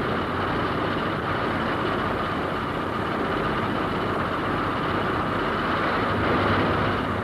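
Steady, unbroken drone of propeller aircraft engines in flight.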